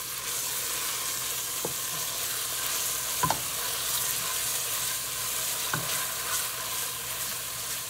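Onions and ginger-garlic paste sizzling in oil in a stainless steel pot while a wooden spoon stirs them, with a few light knocks of the spoon against the pot, the loudest a little over three seconds in.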